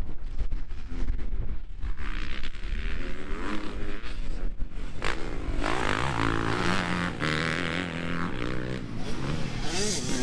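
Motocross dirt bikes racing on a dirt track, their engines revving up and down as they pass. The engine sound grows from about two seconds in and is loudest in the second half, over wind rumble on the microphone.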